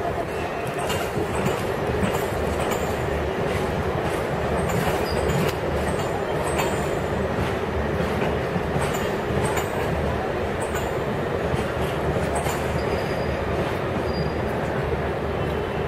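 Train running slowly over crossings and points, a steady rolling rumble with short high-pitched wheel squeals and scattered clicks from the wheels on the rail joints.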